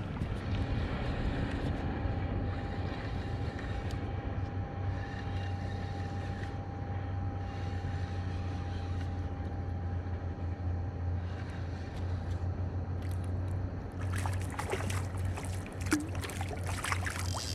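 Steady low drone with water and wind noise from out on a kayak. Near the end come a few sharp splashes or clicks.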